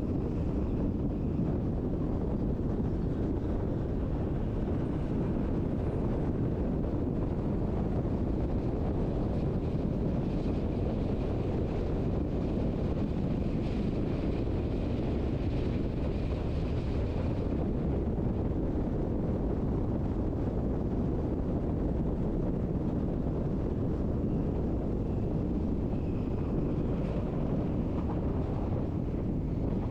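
Steady rumble of a Berner Oberland-Bahn passenger train running along the track, heard from on board, with wind on the microphone. A faint high whine comes in for several seconds in the middle and briefly again near the end.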